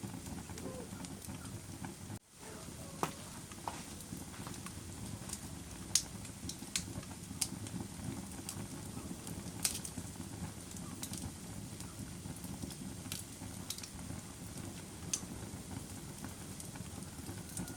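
Wood fire burning in a fireplace: a steady low rush of flame with sharp crackles and pops every second or so, the loudest about six and ten seconds in. The sound drops out for a moment about two seconds in.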